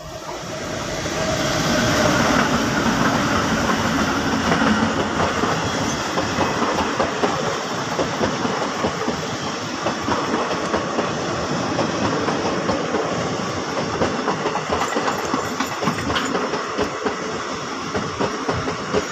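Indian express train hauled by a diesel locomotive running past on the rails. A steady rolling rumble builds up over the first couple of seconds, with rapid clicks of the wheels over the rail joints throughout.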